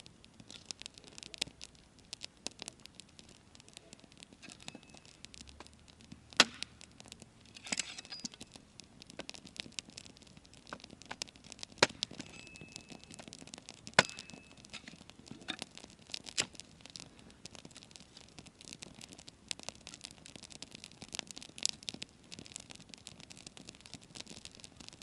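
Wood campfire crackling, with a few sharp, loud pops about six, twelve and fourteen seconds in.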